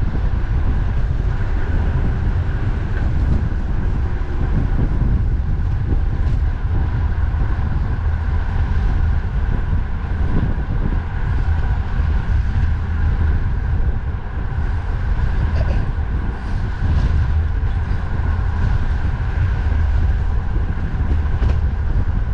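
Strong wind buffeting the microphone in a steady low rumble, over a constant hum of road and traffic noise while cycling.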